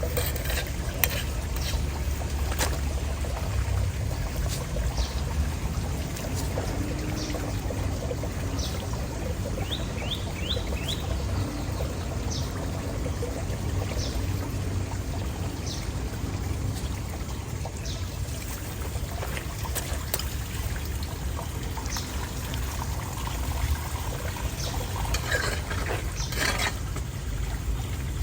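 Floodwater pouring steadily down a street storm drain that has been cleared of its clog.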